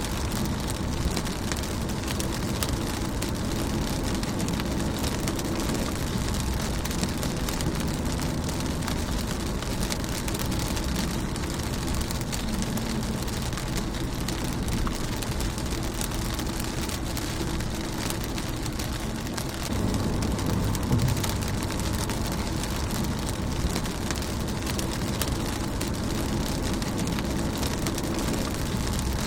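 Steady rain drumming on a car's windshield, a dense patter of drops over a low rumble that gets louder about two-thirds of the way through.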